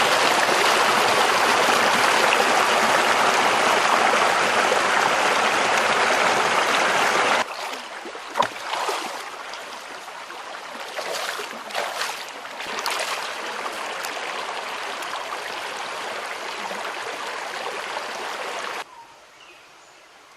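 River water running: loud for about the first seven seconds, then after a sudden drop quieter, with a few short knocks. It cuts off sharply near the end.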